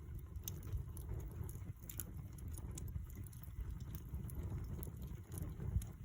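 Wood campfire burning, with irregular sharp crackles and pops over a low steady rumble.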